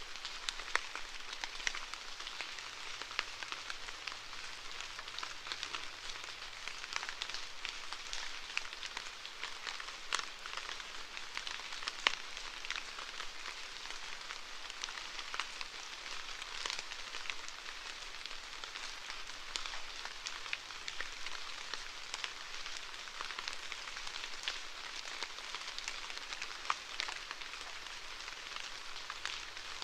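Steady rainfall: an even hiss of rain with many sharp individual drop hits scattered through it.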